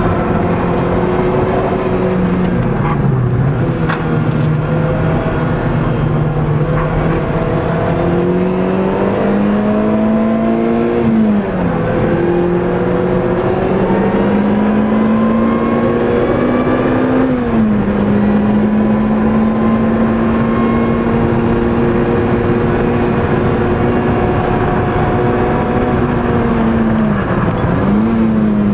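Lotus Exige S engine running hard on track, heard from inside the cabin, with road and tyre noise underneath. The engine note climbs slowly and drops sharply twice as the car shifts up, about twelve and eighteen seconds in. Near the start and again near the end it dips briefly and recovers.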